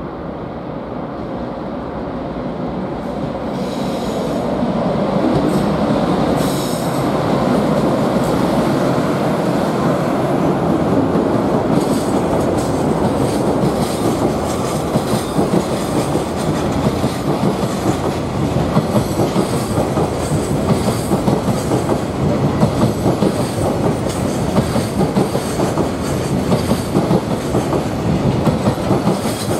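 A freight train hauled by an electric locomotive passes close by. It grows louder over the first few seconds as the locomotive arrives. Then a long run of empty Koki 107 container flatcars clatters past, the wheels striking the rail joints in a steady rhythmic clack.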